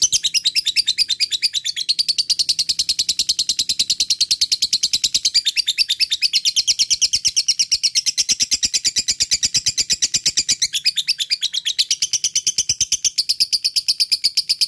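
Lovebird singing a long 'ngekek' chatter: an unbroken string of fast, shrill, high notes, about ten a second.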